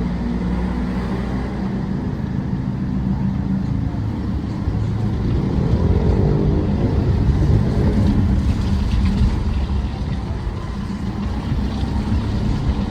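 Motor vehicle engine running steadily while driving, with a low rumble and road and wind noise; a brief shift in engine pitch comes around the middle.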